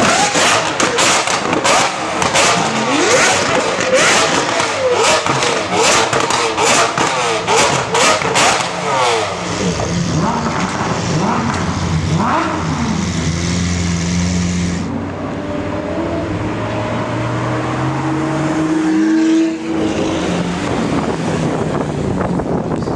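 Lamborghini Aventador V12 engine through an aftermarket exhaust, revved hard. For the first nine seconds or so it is full of rapid crackles and pops. Later the engine note climbs steadily for about four seconds and drops off suddenly.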